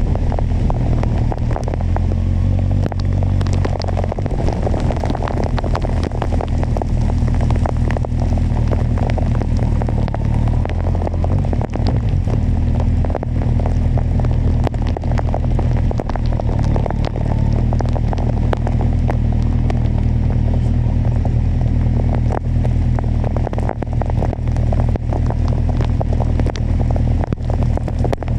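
Kawasaki motorcycle engine running steadily at cruise under wind rush, with a constant crackle of rain hitting the camera.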